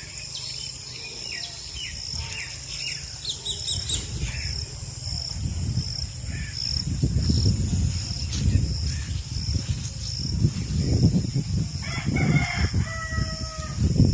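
A rooster crowing once near the end, with small birds chirping in quick strokes early on and a steady high-pitched drone throughout. A low rumbling noise comes and goes underneath.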